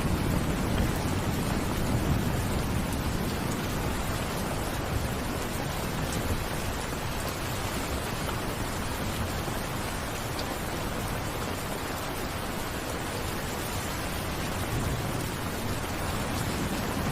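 Steady rain falling, with a low rumble swelling in the first few seconds and again near the end.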